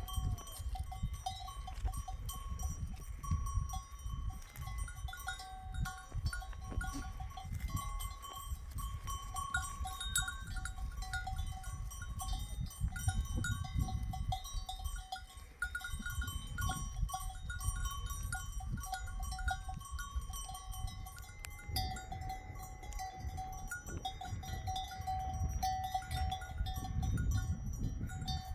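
Bells on a grazing flock of sheep and goats ringing on and off, over a low gusting rumble of wind on the microphone.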